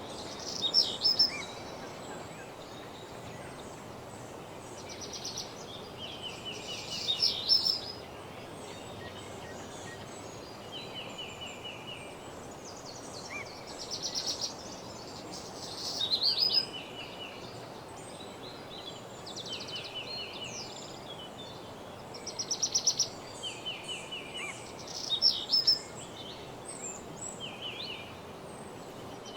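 Woodland songbirds singing: short phrases of rapid trilled notes, repeated every few seconds, over a steady background hiss.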